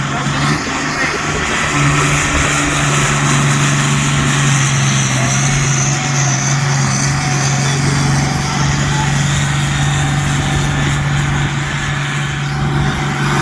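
Fordson Major pulling tractor's engine running hard under full load as it drags the weight sledge down the track. It holds a steady, even note from about two seconds in.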